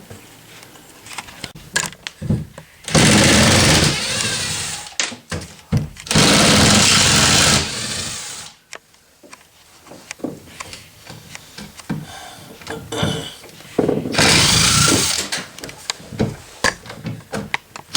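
Power drill or driver running in three short bursts, backing out fasteners while boat parts are taken apart, with clicks and knocks of handling between the bursts.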